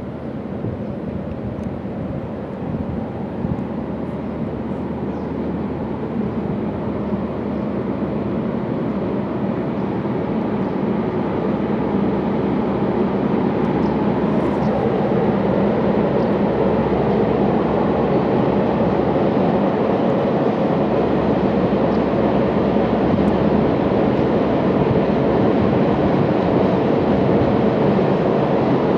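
Freight train of tank wagons rumbling across a steel truss bridge overhead. The steady rumble grows slowly louder as the train comes on.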